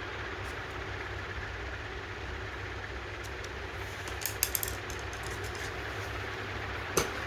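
Honda HRX217 lawn mower engine running steadily, with a few light clicks about halfway through and a sharper knock near the end.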